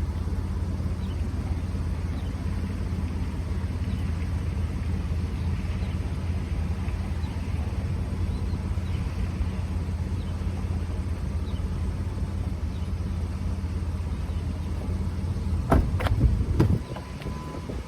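Car running, a steady low rumble. Near the end come a few sharp knocks and clicks, and the rumble drops away.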